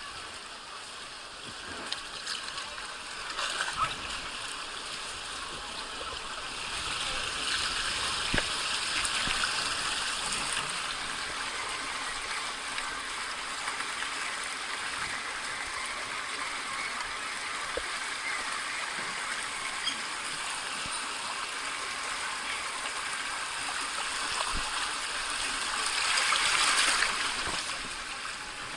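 Fast water rushing and splashing along a water-park wild-river slide channel, swelling into a louder splash near the end.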